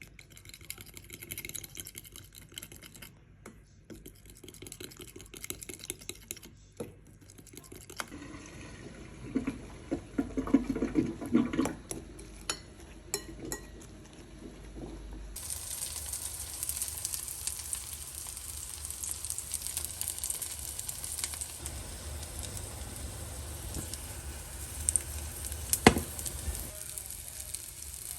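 Kitchen cooking sounds: a faint stretch, then scattered knocks and clinks of utensils, then from about halfway a steady sizzle of food frying in a pan. A sharp clack comes near the end.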